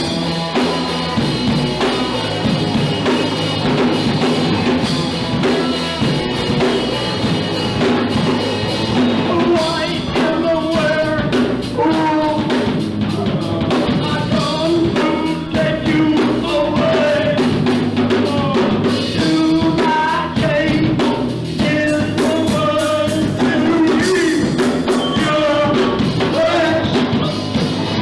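Punk rock band playing live: drum kit and amplified instruments, with a singer's voice coming in about ten seconds in.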